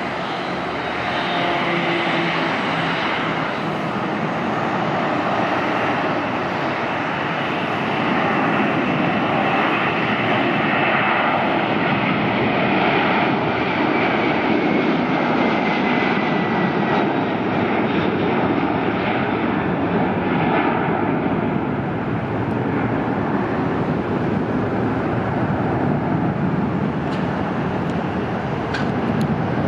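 Boeing 767-300ER airliner's twin jet engines at takeoff power, a loud steady rush with a whine that falls in pitch around the middle as the jet goes by.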